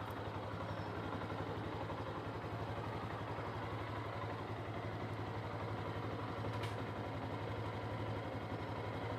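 Engine idling steadily: a low, even hum with a fast regular pulse.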